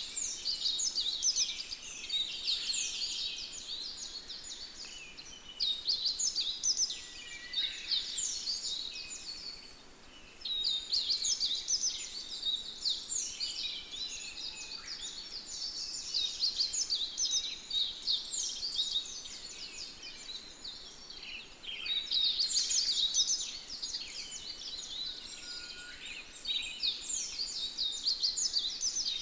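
Small birds chirping and twittering in a dense chorus of quick, high, downward-sliding notes, coming in clusters with short lulls between them.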